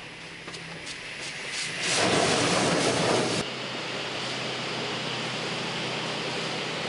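High-pressure water spray from an in-bay automatic car wash's rotating arm hitting the car, swelling louder for about a second and a half as the spray sweeps close, then cutting back suddenly to a steady hiss.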